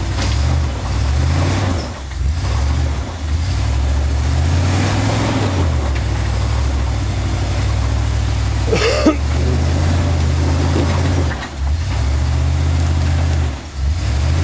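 Off-road vehicle's engine working hard under load while crawling up a rock ledge, its revs rising and falling in repeated pushes with short let-offs. A brief sharp sound cuts in about nine seconds in.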